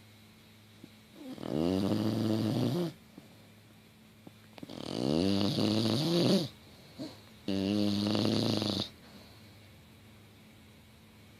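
An English bulldog snoring loudly in her sleep: three long snores, each one to two seconds long, with a buzzing pitched tone that bends at the start, coming about every three seconds with quiet breaths between.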